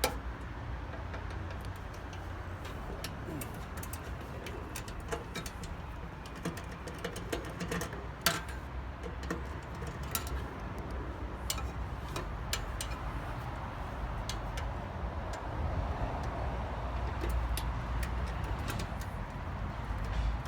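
Irregular metallic clicks and taps from hand tools working inside a microwave oven's metal casing, with one sharper click about eight seconds in, over a steady low rumble.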